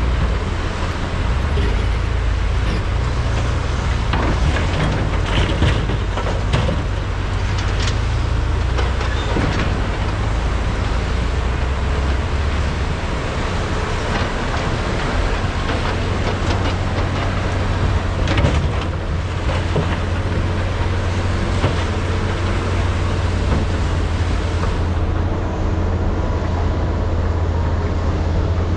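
Large hydraulic excavators (Komatsu PC395 and SANY SY485H) working: heavy diesel engines rumble steadily under load while they dig and load. Occasional short knocks and clatter rise above the engines.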